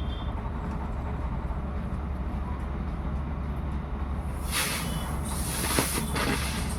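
Diwali firecracker hissing in several fizzing spurts from about four seconds in, for about two seconds, over a steady low rumble.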